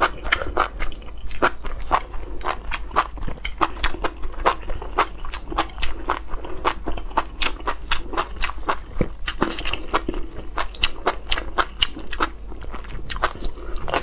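Close-miked chewing and crunching of enoki mushrooms, a steady run of sharp crunches several times a second.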